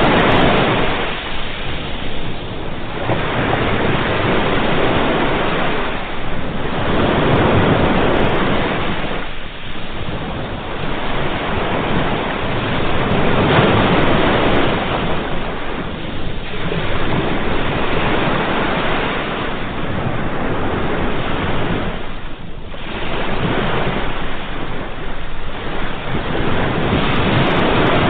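Sea waves breaking and washing up on the shore, one surge after another every few seconds.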